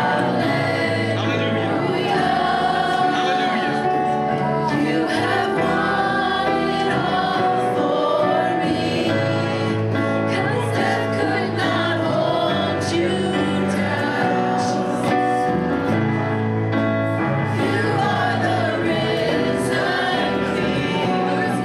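Gospel worship song: voices singing over instrumental accompaniment with a steady bass line.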